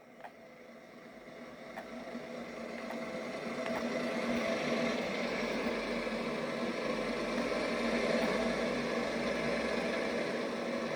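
A train approaching and passing, growing louder over about four seconds and then running loud and steady with a constant hum.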